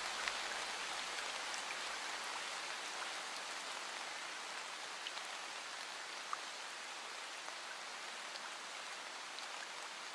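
Steady rain falling, an even hiss with a few sharper drop ticks here and there, slowly growing softer.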